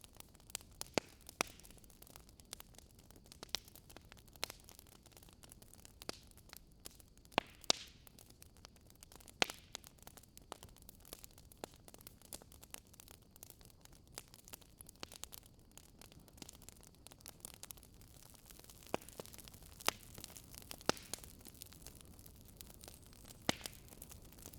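Wood fire in a fireplace crackling: a faint steady hiss with irregular sharp pops and snaps from the burning logs.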